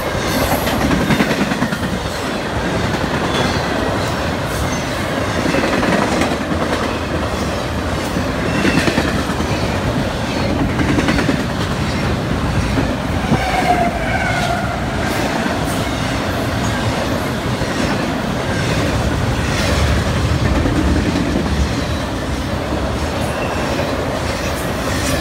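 CSX intermodal freight train of double-stacked containers and trailers on well cars passing close by. It makes a steady rumble and clickety-clack of steel wheels on the rails, with brief wheel squeals now and then.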